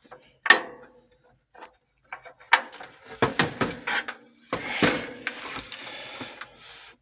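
Irregular clicks and knocks with some rustling, as of objects being handled and set down.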